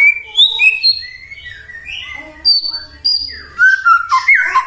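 White-rumped shama (murai batu) singing a fast, varied run of loud whistled phrases, with sliding notes and high pips, turning to harsher, buzzier notes near the end.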